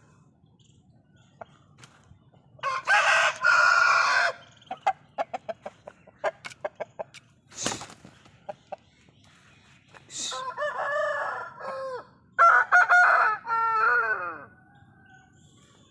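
Aseel roosters crowing three times, with short clucks and chirps from the flock in between and one sharp knock about halfway.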